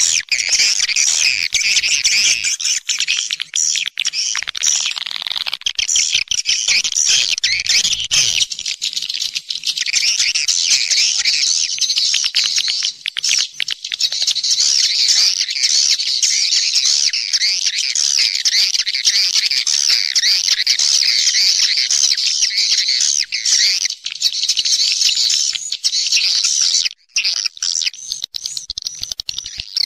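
A flock of swiftlets chirping and twittering densely and without pause, high-pitched. This is the kind of swiftlet call recording played to lure the birds into a nesting house. It breaks off for a moment near the end.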